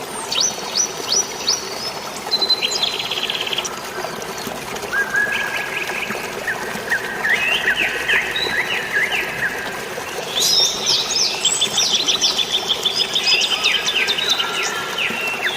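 Several birds chirping and trilling in quick runs of notes, busiest in the last third, over a steady hiss of rain and flowing water.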